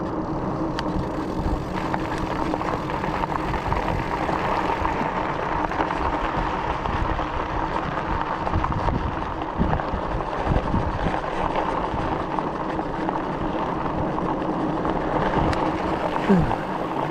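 Wind buffeting the microphone and tyre noise from an e-bike riding along a smooth road, a steady rush with low gusty rumbles.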